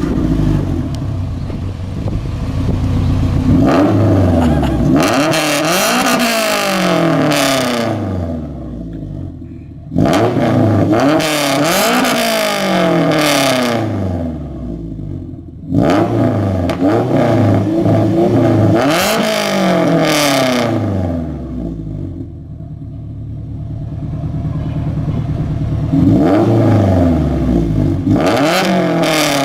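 Honda B18C four-cylinder engine in a Civic with a straight-pipe cat-back exhaust, revved repeatedly: the pitch climbs and falls back toward idle several times, with sudden sharp blips of the throttle between longer rises. The exhaust note is loud and raw, typical of a straight pipe.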